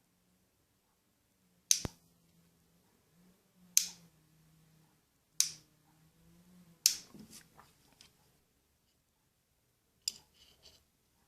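Sharp clicks of small hard parts or tools being handled and set down during reel disassembly, five in all, a second and a half to three seconds apart, the fourth trailing into a short rattle.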